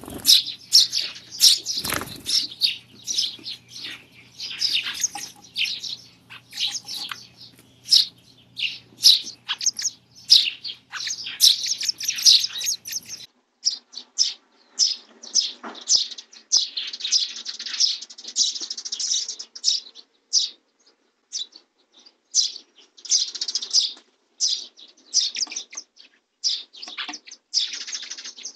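Sparrows chirping rapidly and continuously at a nestbox, many short calls overlapping. There is a single knock about two seconds in, and a faint low hum stops about halfway through.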